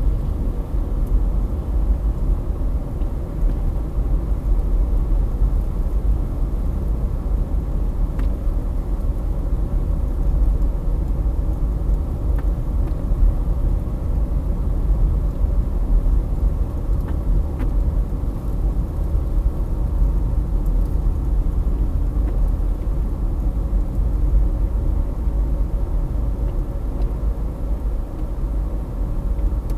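Gusty wind in a wind storm buffeting the microphone: a continuous low rumble that rises and falls a little, with no separate sounds standing out.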